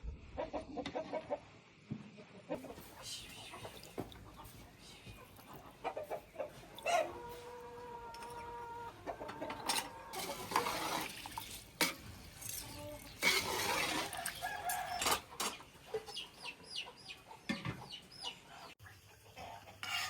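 Domestic chickens clucking, with a rooster crowing once about seven seconds in.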